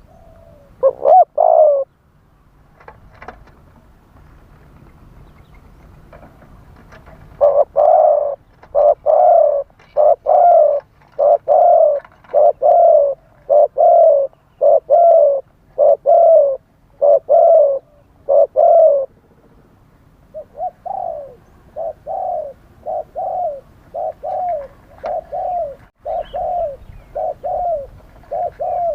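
Spotted dove cooing. A couple of coos come about a second in, then a long run of loud, evenly spaced coos, about one and a half a second. After a short pause a softer run of coos follows.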